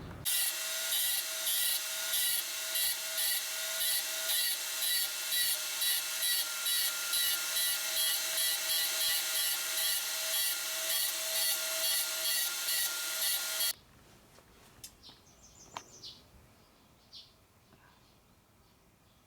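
An electric power tool runs steadily with a strong whine, its sound pulsing about three times a second, then stops suddenly about 13 seconds in. Faint bird chirps follow.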